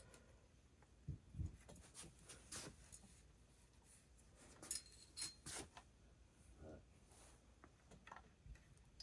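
Near silence broken by faint scattered clicks and light taps, in two small clusters: small parts and ignition wires being handled on a chainsaw during reassembly.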